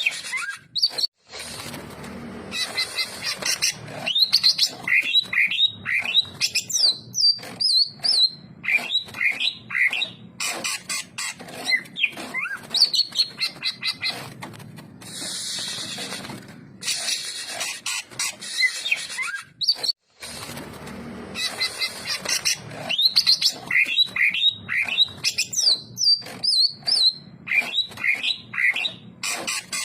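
Cucak ijo (greater green leafbird) singing a fast run of varied whistled and chirping notes, with short harsh rasping passages between them. The same sequence comes round again after about 18 seconds.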